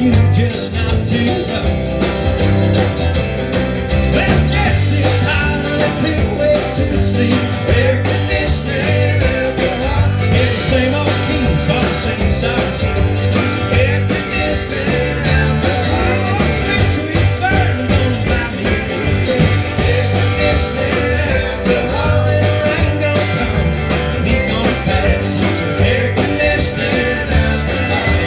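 Live country-rock band playing an instrumental stretch of a song, guitar over a steady bass line and drums.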